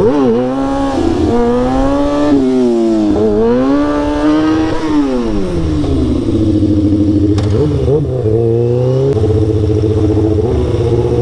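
Sportbike engine revving up and down through several throttle pulls, then dropping back to a steady low running with one short blip about eight seconds in.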